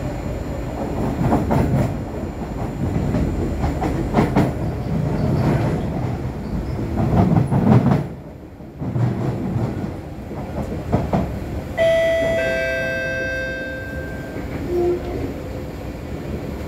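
Inside an SMRT C151C electric train running at speed: a steady rumble of wheels on rail with irregular clicks from the track, briefly quieter about eight seconds in. A steady high tone with several overtones sounds for about three seconds, starting about twelve seconds in.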